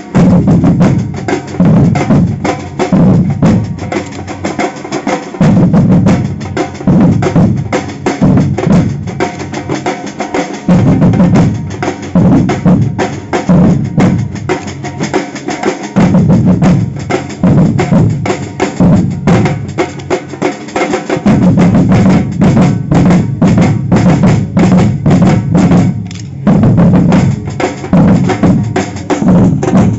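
Samba drum group playing a driving rhythm, loud: deep bass drums pounding under fast snare drum strokes.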